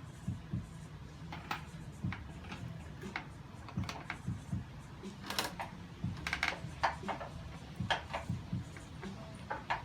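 Scattered light clicks and knocks of metal parts and tools being handled, irregular and short, over a steady low hum, as an engine is slid into place beneath a car.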